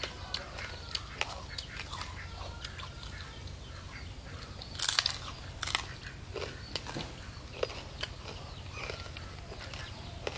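Chewing and crunching as people bite into raw fish salad wrapped in fresh leaves and herbs, in scattered short bites with a cluster of louder crunches about five seconds in.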